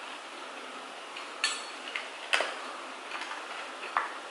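Eating utensils clicking and clinking against plates and bowls during a meal, about five short sharp clicks, over a steady background hiss of rain.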